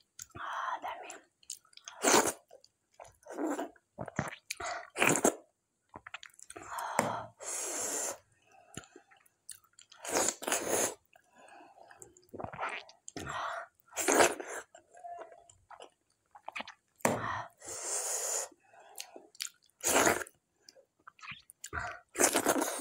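A person chewing mouthfuls of mutton curry and dhido, in irregular short bursts of wet mouth sounds every second or so.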